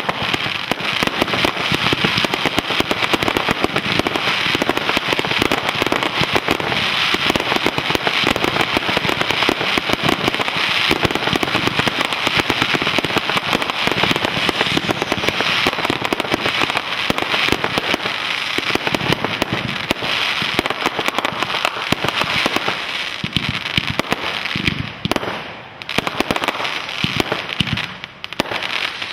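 Fireworks finale: a dense, continuous barrage of bursts and crackling pops, with two brief lulls near the end.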